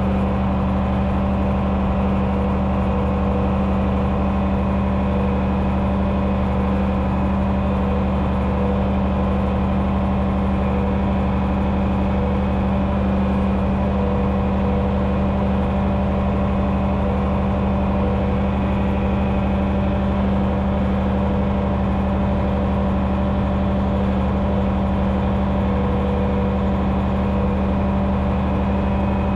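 1972 John Deere 6030's six-cylinder turbo diesel running steadily under load while pulling a six-bottom moldboard plow.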